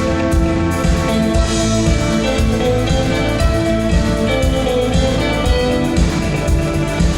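Symphony orchestra playing an arrangement of a rock song live: sustained chords over a steady low pulse.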